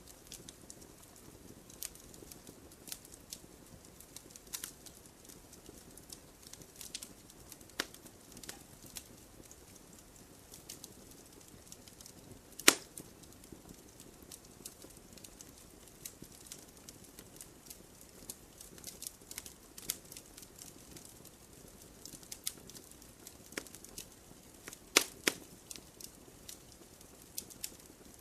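Wood campfire crackling and popping, with irregular sharp snaps over a soft low rustle of flame. One loud pop comes about halfway, and a few more come close together near the end.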